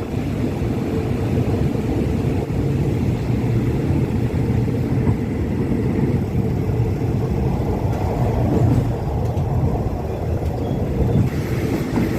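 Passenger train running, a steady low rumble of wheels and carriage heard from inside the coach.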